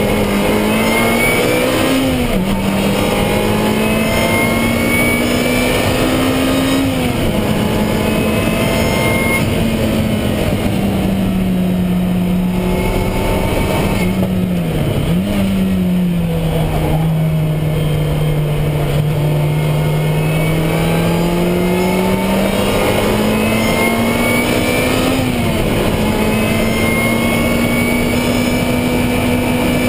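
Lotus Exige Cup 260's supercharged 1.8-litre four-cylinder engine driven hard on track, heard from inside the cabin over road and wind noise. The engine note climbs and drops sharply at upshifts about 2½ and 7 seconds in, falls away under braking with a quick downshift blip around 15 seconds, then climbs slowly for about ten seconds to another upshift near the end.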